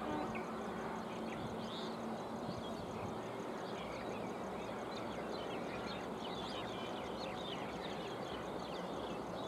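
Birds chirping and calling in many short, repeated notes over a steady background rumble.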